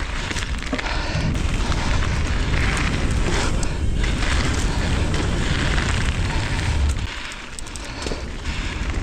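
Wind buffeting an action camera's microphone as a mountain bike rides fast down dirt singletrack, mixed with tyre rumble and clattering from the bike over bumps. The noise eases briefly about seven seconds in.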